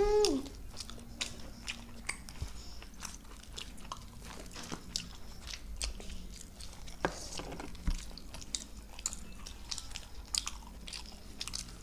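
Two people chewing luchi and potato curry by hand close to a table microphone: a steady run of small mouth clicks and chewing sounds.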